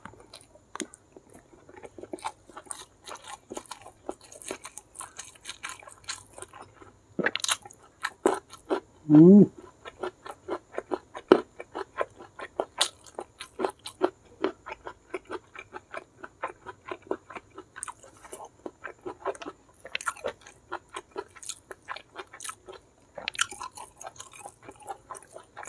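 Close-miked chewing of rice, blood cockles in sambal and petai beans eaten by hand: steady wet chewing with many small crunches and clicks. About nine seconds in, a short rising vocal sound from the eater stands out as the loudest moment.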